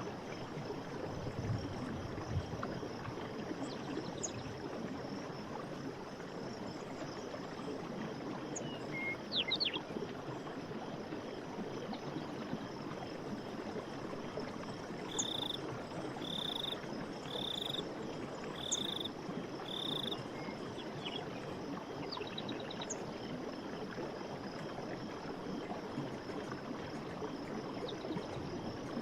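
Night forest ambience: a steady hiss of background noise with scattered frog and insect calls. Midway through, a run of five short high notes about a second apart.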